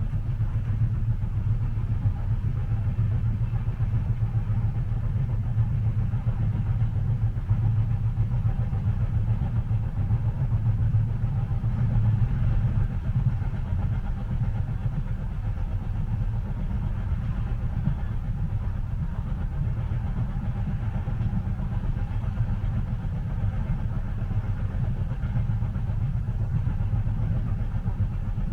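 Steady low rumble of a moving train heard from inside the carriage, even throughout with no distinct rail clacks.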